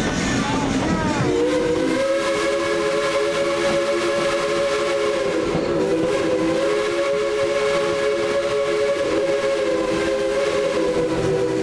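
Steam locomotive's chime whistle sounding one long blast of several tones at once, starting about a second in and held for about ten seconds with a slight waver, over the running train.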